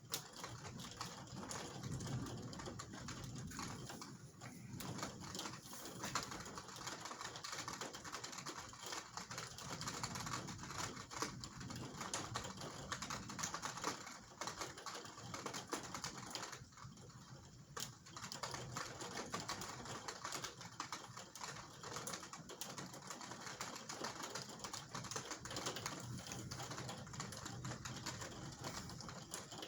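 Rain from a thunderstorm striking a hard surface: a dense, irregular patter of ticks, easing briefly a little past halfway.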